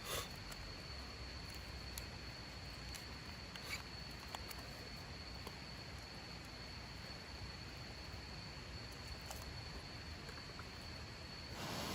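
Quiet outdoor mountain ambience with an insect's steady high-pitched drone throughout, a few faint scattered clicks, and a broad rush of noise swelling near the end.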